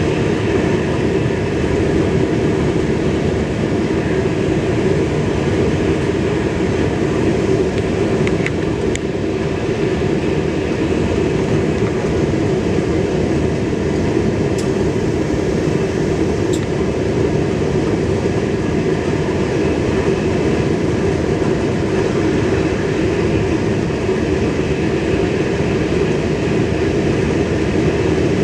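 Steady running noise of an X31 Øresundståg electric multiple unit at speed, heard inside the driver's cab.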